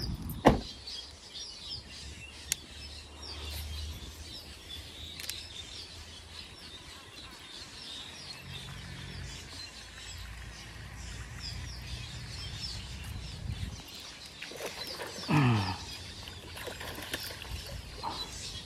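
Birds chirping steadily, many short repeated chirps, with a single sharp knock about half a second in, such as a car door shutting.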